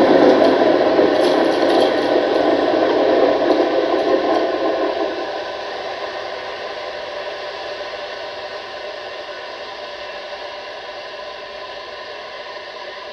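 Tram wheels rolling and squealing through a tight track curve, several steady screeching tones over rolling noise, fading away over the first five or six seconds as the tram moves off, with the squeal lingering faintly.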